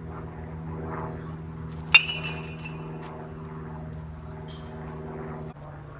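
A bat striking a ball once, about two seconds in: a sharp crack that rings on briefly. A steady hum runs underneath and drops away near the end.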